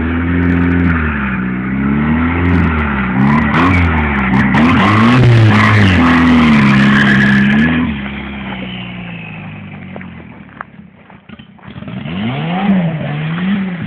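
Turbocharged air-cooled flat-four engine of a stripped-down 1955 VW Beetle pan revving up and down over and over. The engine sound fades away after about eight seconds and swells back near the end.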